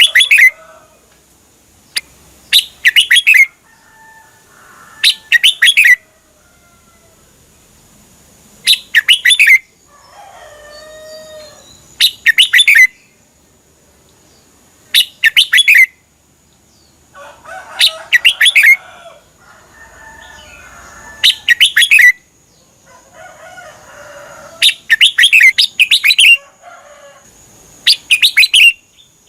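Red-whiskered bulbul singing: short, loud, rapidly warbled phrases, about one every three seconds, with softer, lower chattering calls between some of them.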